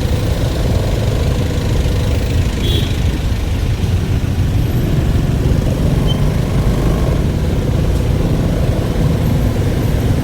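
A vehicle engine running steadily: a continuous low drone with a faint, slightly wavering hum, and no revving.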